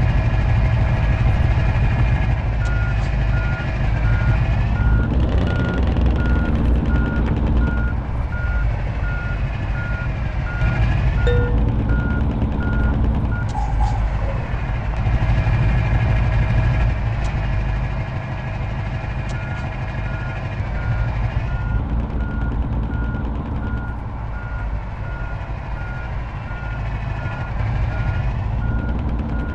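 Truck engine running under load and revving up and down repeatedly, with its reversing beeper sounding a steady run of regular beeps that stops for several seconds in the middle and then resumes.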